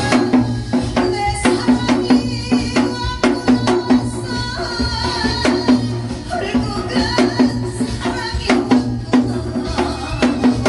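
Janggu (Korean hourglass drum) struck in quick, regular rhythm along with a recorded song accompaniment with a steady beat.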